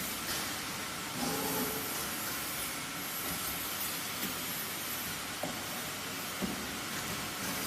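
Refrigerator tube serpentine bending machine running: a steady hiss of machine noise with faint tones and a couple of light clicks near the end.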